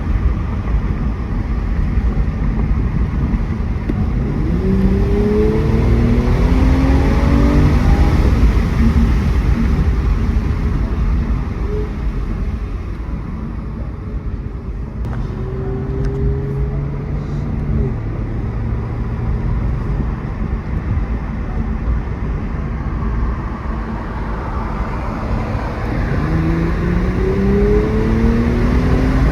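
Mercedes-AMG E43's twin-turbo V6 pulling under acceleration, its pitch rising in steps through the gears, over a constant low road rumble. It settles to a steadier lower note partway through, then climbs again near the end.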